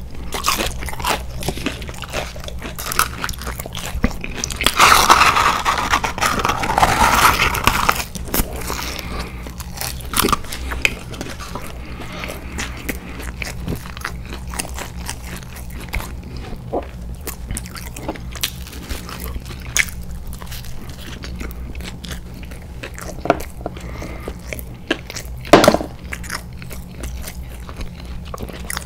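A person chewing and biting chicken nuggets and a cheeseburger, with many small wet mouth clicks. A louder, denser stretch of chewing starts about five seconds in and lasts about three seconds, over a steady low hum.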